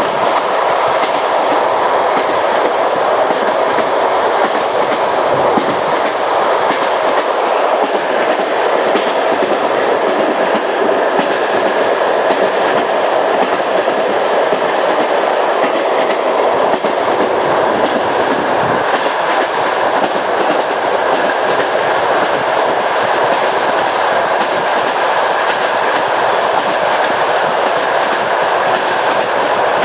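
Train wheels clicking over rail joints, the clickety-clack running steadily over a continuous rolling rush.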